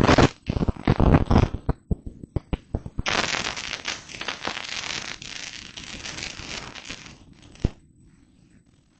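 Close crackling and rustling: a quick run of sharp clicks and knocks in the first two seconds, then about four seconds of steady rustling, ending with one sharp click.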